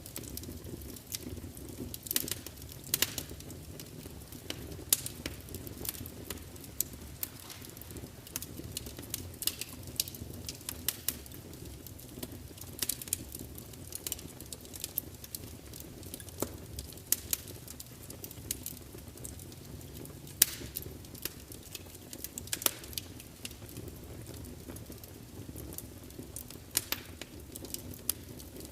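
Wood fire burning in a large open fireplace: a steady low rumble of flames with irregular sharp crackles and pops, a few of them louder snaps.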